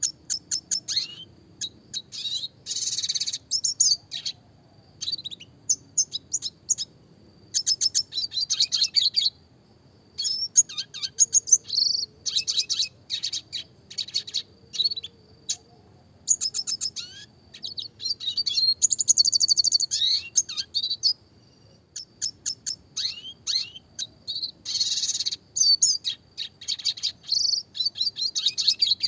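Red siskin (Spinus cucullatus) singing: a fast, high song of rapid chirps, rolling trills and buzzy notes, delivered in phrases of one to three seconds with short pauses between.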